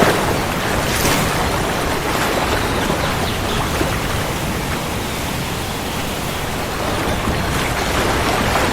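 Steady heavy rain, a dense even hiss with no clear thunderclap.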